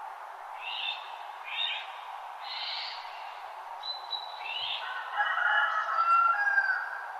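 Wild birds calling at dawn: several short, raspy calls, then a louder warbling song near the end, over a steady rushing background hiss.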